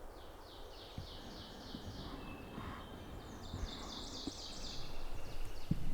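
A small songbird singing two fast runs of high, downslurred notes, about five a second, over low wind-like rumble and a few soft thumps.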